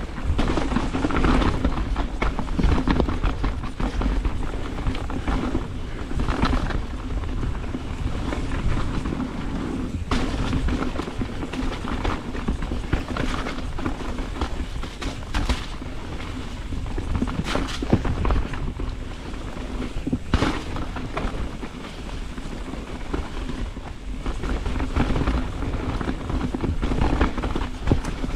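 Mountain bike riding down a rocky, technical trail: a continuous low rumble of tyres and rushing air on the microphone, broken by frequent sharp knocks and clunks as the bike hits rocks and roots.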